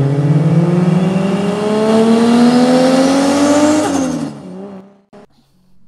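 Car engine accelerating hard, its note rising steadily for about four seconds in a single pull, then dropping away and fading out.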